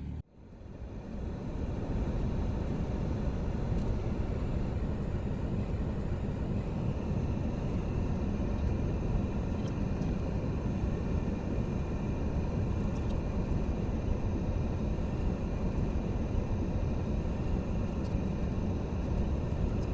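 Steady road noise of a car driving, a low, even rush that fades in about a second and a half in and holds level.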